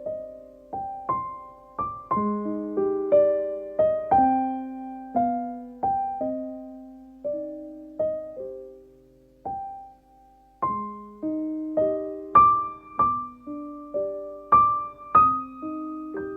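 Background piano music: a gentle melody of single struck notes, with a brief pause about ten seconds in.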